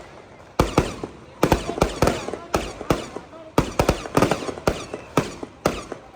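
Firecrackers going off in sharp, irregular bangs, two or three a second, each with a short echo.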